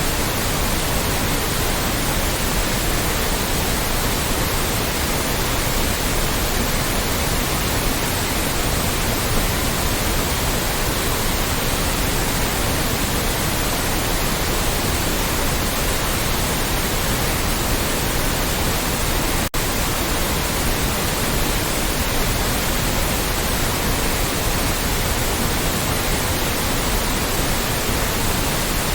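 Loud, steady synthetic white noise: an even hiss spread evenly from low to high pitch. About two-thirds of the way through it cuts out for a split second, then resumes unchanged.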